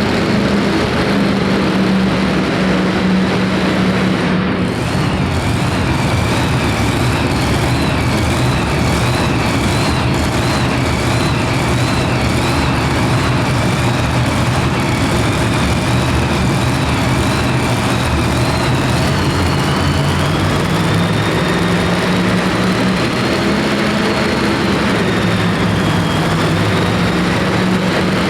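Super modified two-wheel-drive pulling truck's engine running loud and steady. A high, wavering whine sits above the engine and climbs slightly about twenty seconds in.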